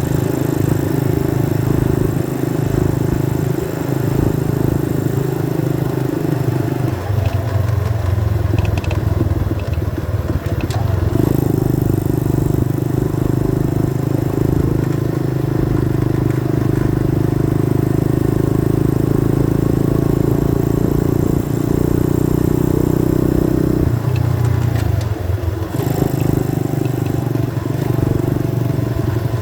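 90cc dirt bike engine running under way at steady revs. The revs drop about seven seconds in and climb back a few seconds later, then dip and recover once more near the end.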